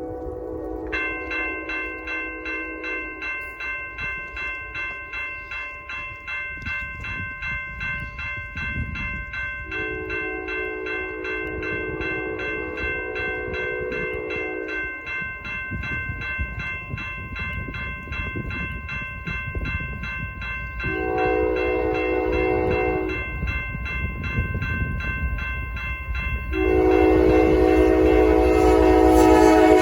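Locomotive air horn sounding the grade-crossing signal, long, long, short, long, the last blast held as the train draws near. Under it a crossing bell rings steadily, and the train's rumble grows toward the end.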